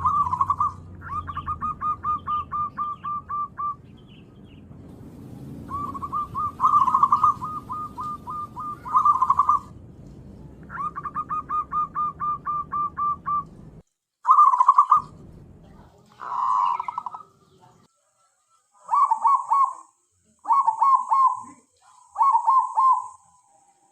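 Zebra dove (perkutut) cooing: bouts of rapid, evenly repeated short coos, several bouts with short pauses between them, the last few bouts shorter and choppier.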